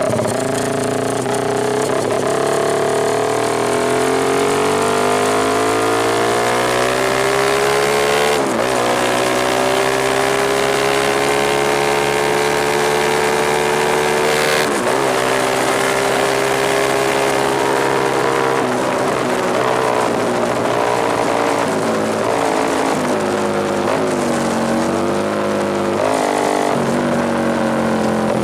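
Suzuki Satria FU injection motorcycle engine running loud through a Tetenk PRO-MP aftermarket racing exhaust. Its revs climb steadily over the first several seconds, break briefly twice and hold high, then drop and rise unevenly near the end.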